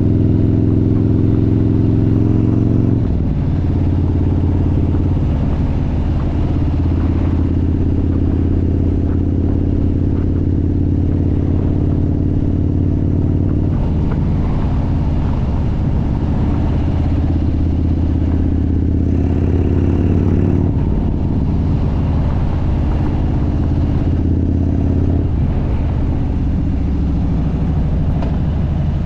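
Harley-Davidson motorcycle engine running under way, a loud, steady low engine note that changes pitch in steps several times during the ride.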